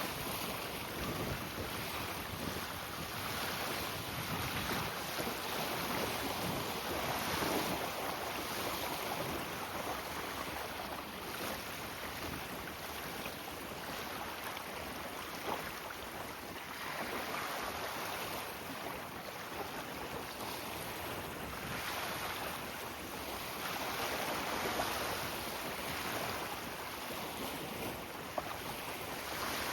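Strong wind blowing across the microphone over choppy water: a steady rushing noise that swells and eases with the gusts.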